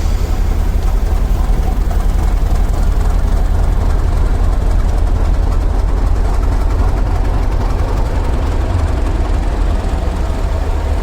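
Train running with a steady, loud low rumble.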